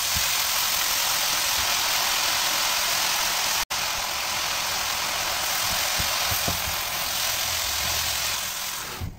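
Fresh chopped spinach sizzling steadily in hot oil and tomato masala in a frying pan, with a few soft knocks of a wooden spatula stirring it. The sizzle breaks off for an instant about four seconds in and dies down near the end.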